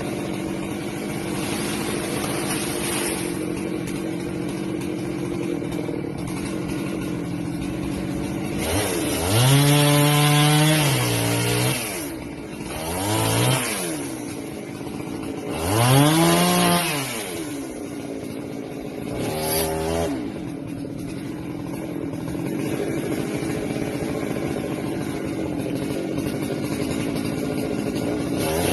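Husqvarna 390XP two-stroke chainsaw running steadily at a low speed, then revved up four times between about 9 and 20 seconds in, its pitch rising and falling with each blip of the throttle, before settling back to the steady running sound.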